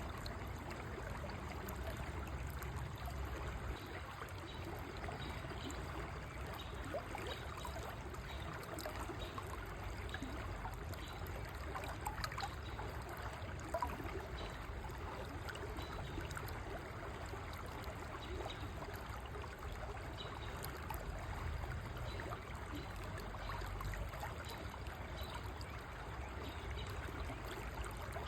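River water flowing and trickling steadily, with a few faint splashes.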